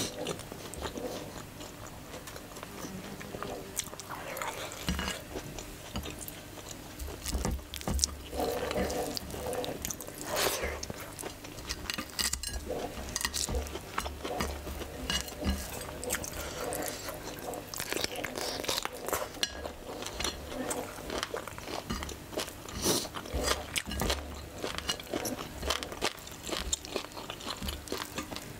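Close-up eating sounds of a person chewing and biting naan, mutton curry and rice eaten by hand, with many irregular mouth clicks and smacks and occasional light clinks against a plate.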